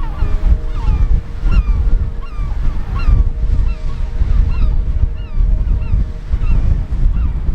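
Seabird colony calling: many birds crying at once in short, repeated, overlapping calls, over a steady low rush of wind and surf.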